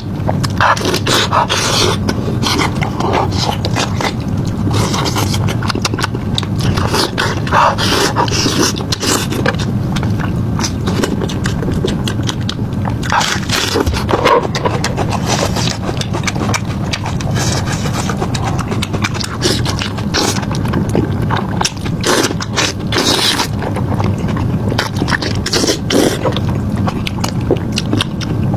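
Close-miked eating sounds: chewing, with frequent short crunches, crackles and mouth clicks over a steady low background.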